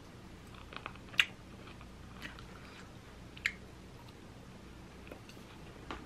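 A person chewing mouthfuls of octopus and potato salad at close range, with a few short sharp clicks scattered through it, the loudest about a second in.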